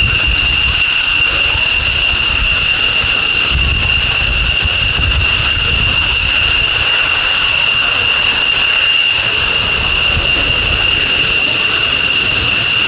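F-15 fighter jet's twin turbofan engines running with a steady, loud, high-pitched whine over a low rumble.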